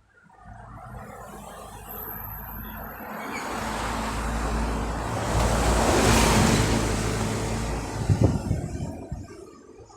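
A motor vehicle passing by on the road: engine hum and tyre noise build over several seconds, peak about six seconds in, then fade away.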